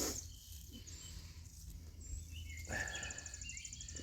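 Birds chirping with short high calls, and a fast high trill through the second half; a brief rustle sounds about two and a half seconds in, over a steady low rumble.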